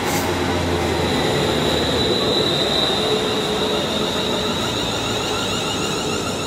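London Midland Class 350 Desiro electric multiple unit passing close by at speed: steady rushing wheel-and-rail noise with a thin, high-pitched whine running through it. The sound eases slightly near the end.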